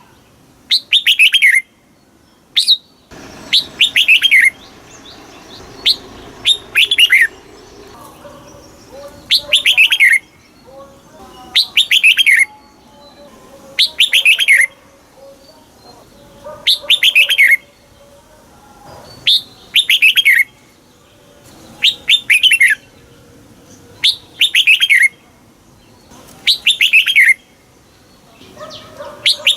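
Red-whiskered bulbul singing: short loud phrases of quick, falling whistled notes, repeated every two to three seconds.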